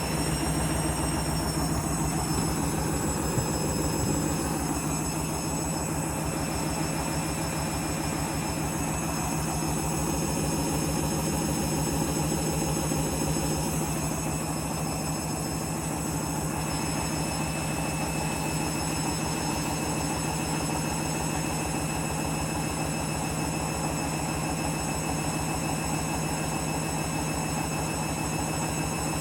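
Candy washing machine spinning a heavy load with the drum balanced. The motor's whine rises and levels off about a second in, then holds steady at spin speed over the drum's rumble.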